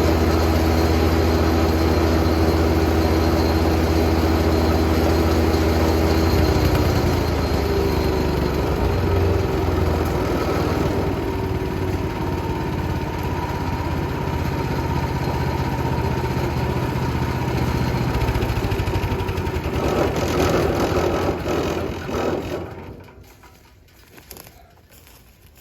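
Jansen GTS 1500e wood chipper's engine running at speed, throttled back about six seconds in so its pitch drops. It runs on at the lower speed, then is shut off and dies away near the end.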